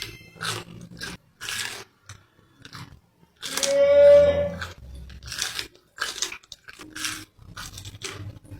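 Close-up crunchy chewing and biting of food, in short crunches about one or two a second. A louder pitched sound, about a second long, comes about halfway through.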